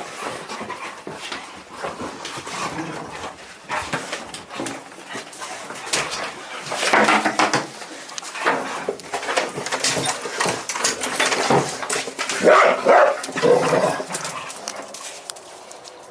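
Puppies whimpering and barking in short, irregular bursts, loudest about seven seconds in and again around twelve to thirteen seconds in.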